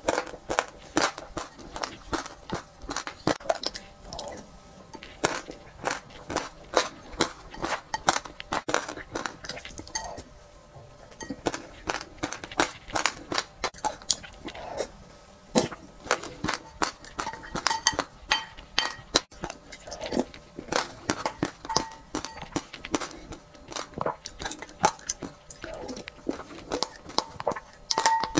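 Close-miked eating of a sesame-topped dessert: a quick, dense run of crisp crunching and chewing clicks, several a second. Now and then, mostly in the second half, a ceramic spoon clinks against the glass bowl with a brief ring.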